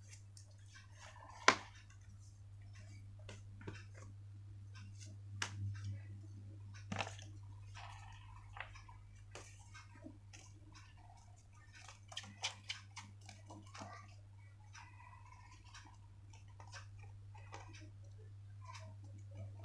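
Paper being handled and folded by hand: scattered crinkles, taps and soft rustles, with a sharp click about one and a half seconds in, over a steady low hum.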